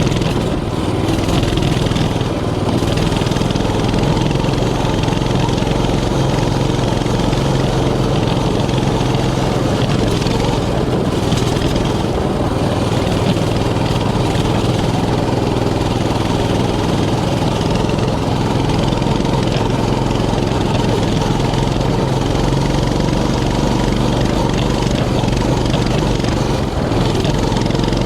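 Mini bike's small engine running steadily under way.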